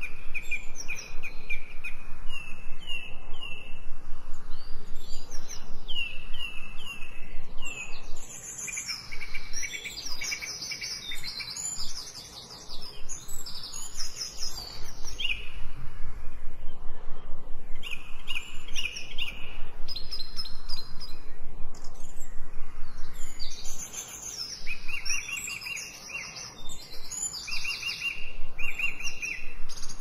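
Several birds singing at once: short chirping phrases repeated again and again, some in slurred series of notes and others in quick high trills, overlapping and pausing briefly now and then.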